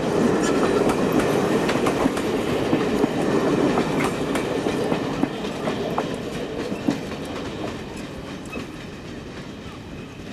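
Passenger train rolling past on jointed track, wheels clicking over the rail joints, the rumble fading steadily as the train moves away.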